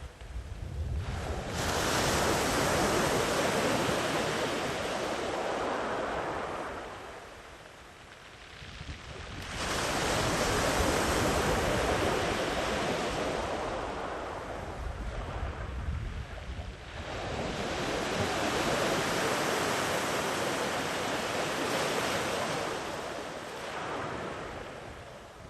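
Sea waves breaking and washing up a sandy beach, three long surges of surf each building and fading away over several seconds.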